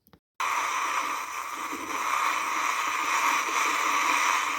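A steady rush of water noise that cuts in abruptly about half a second in, after near silence.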